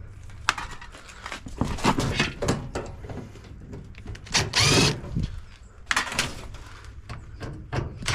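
Knocks and clatter of metal dishwasher parts being handled, with a short burst of a power drill spinning up, its pitch rising, about four and a half seconds in.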